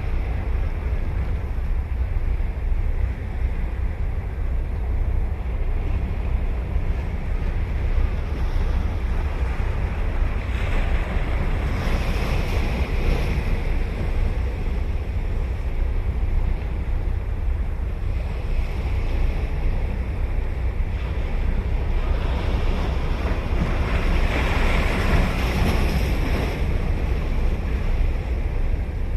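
Ocean waves breaking and washing up a sandy beach, with two louder surges about twelve seconds in and again near the end. A steady low rumble of wind buffets the microphone throughout.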